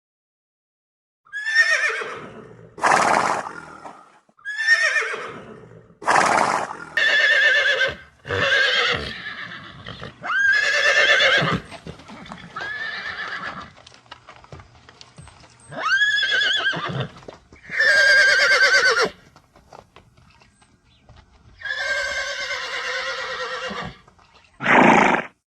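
Horses neighing: a series of about a dozen separate whinnies, each starting high and falling in pitch, with short pauses between them.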